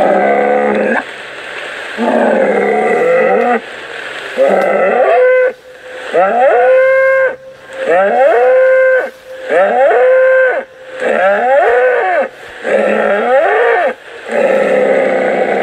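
Cattle mooing over and over: about nine calls of a second or so each, separated by short gaps. Several of the calls rise and then fall in pitch.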